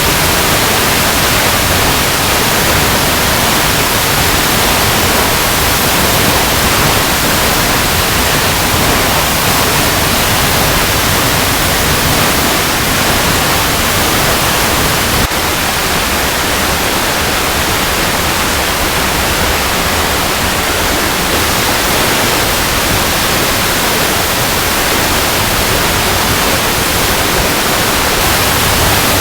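Waterfall cascading over rocks: a steady, dense rush of falling water. A brief click about halfway through, after which the rush is slightly quieter.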